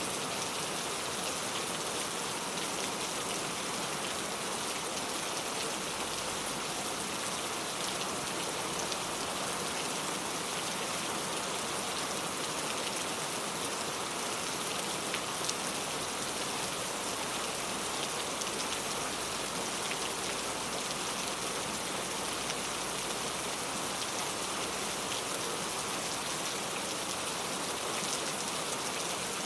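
Steady rain falling, an even hiss with fine scattered drop patter on surfaces.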